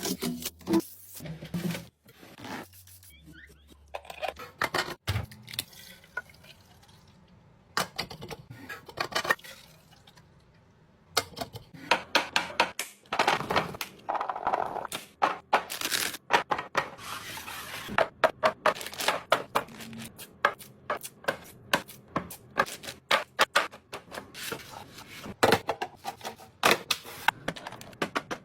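Items being handled and set into a refrigerator during restocking: repeated knocks and clinks of containers set down, with rustling of packaging. It is quieter for a few seconds in the first half, then the clatter comes thick and fast.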